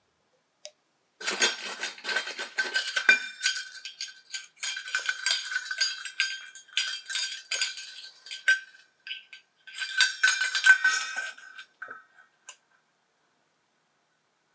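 A metal spoon scraping and clinking against a metal pot in quick repeated strokes, with a ringing tone, in three spells separated by short pauses.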